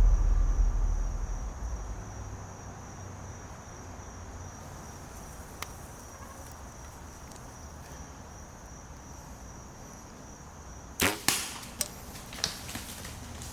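A hunting bow shot about eleven seconds in: one sharp snap, followed by a few quieter clicks. Before it, a steady high insect trill carries on through the quiet woods and stops just before the shot.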